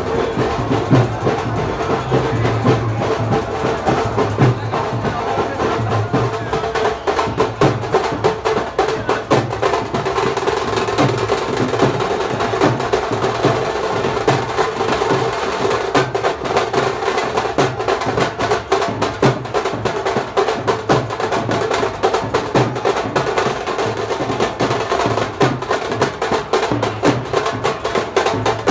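Loud procession music with fast, steady drumming over a held tone.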